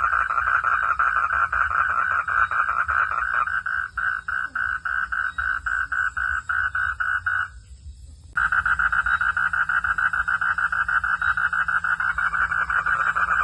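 Frogs calling in a rapid, pulsing trill that stops suddenly about seven and a half seconds in and starts again under a second later, over a low steady hum.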